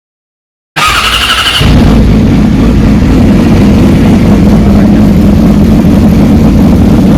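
600 cc inline-four supersport motorcycle engine starting with its exhaust open: a brief high whir of cranking, then it catches and runs loud and steady.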